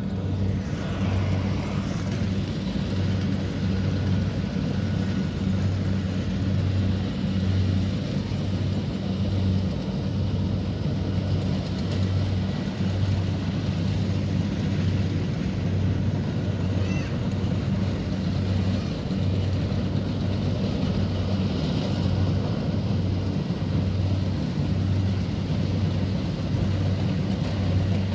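Kubota DC70 Pro combine harvester's diesel engine running steadily: a continuous low drone that swells and dips slightly in level.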